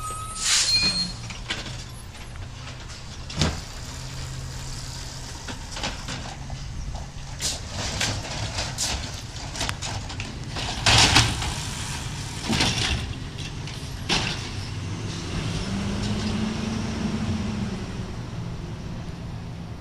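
Garbage truck engine running steadily, with scattered clanks and knocks and short bursts of air hiss; the loudest burst comes about eleven seconds in. Near the end a low hum rises and then falls.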